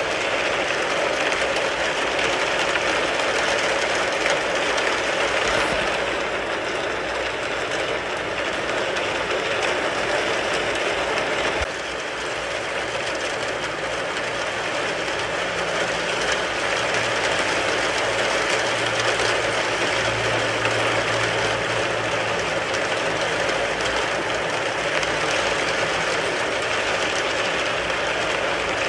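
Steady rain falling on a car, heard from inside the car: a dense, even hiss made of countless small drop hits. A faint low hum comes in about halfway through.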